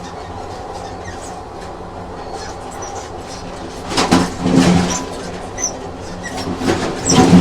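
Train running on rails, heard as a steady rumble. Loud wheel clatter over the rail joints comes about four seconds in and again near the end.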